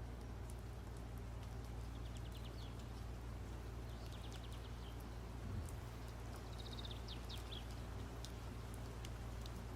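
Steady low hum with short runs of quick, high, faint chirps, much like small birds, twice, and a soft thud about five and a half seconds in.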